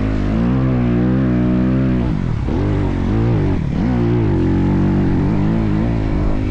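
Motocross bike engine revving hard, its pitch rising and falling with the throttle and dropping sharply twice, a little after two seconds and again around three and a half seconds in, as the throttle is chopped and picked up again.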